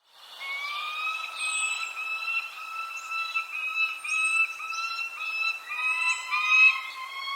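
Birdsong: a long run of clear whistled notes, each rising slightly and following almost without a break, with a second, lower run of notes joining about six seconds in and brief high chirps over the top.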